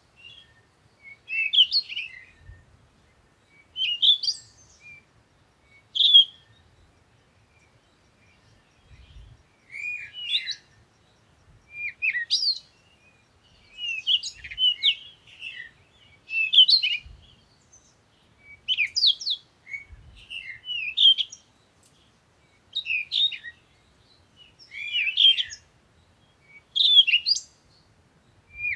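A bird chirping in short repeated phrases, about one every two seconds.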